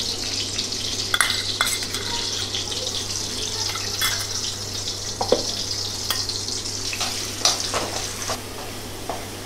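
Garlic paste sizzling in hot ghee with cumin seeds in a metal kadhai, a steady frying hiss. A spoon and spatula knock and scrape against the pan now and then as it is stirred.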